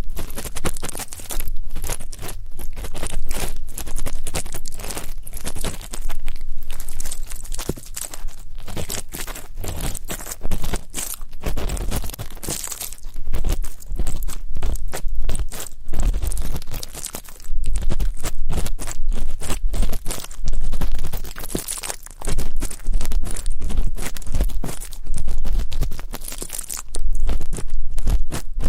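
Ear-cleaning ASMR: an ear-cleaning tool scraping and rubbing close against a microphone, making dense crackling and scratching with low handling thumps. It comes in bouts with short pauses, one about 22 seconds in.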